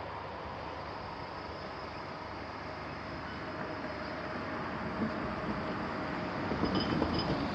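Steady rumble of a train running on the JR Chitose Line track, growing slightly louder toward the end.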